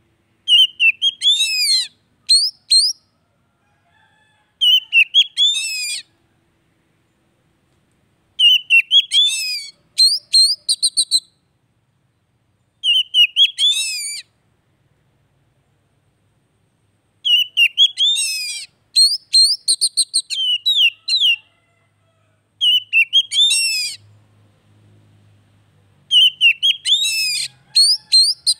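Oriental magpie-robin (kacer) song: short phrases of high whistles and fast trills, about seven of them, each a second to a few seconds long, with silent gaps between.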